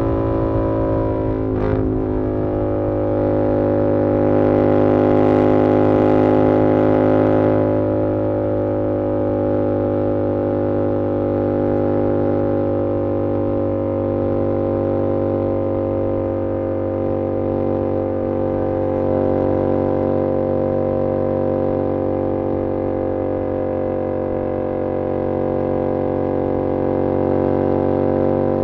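Yamaha R7's 689 cc parallel-twin engine through an SC-Project CR-T exhaust, running at a steady cruise. There is a brief break in the note about two seconds in, and the sound swells slightly a few seconds later before settling back to a steady drone.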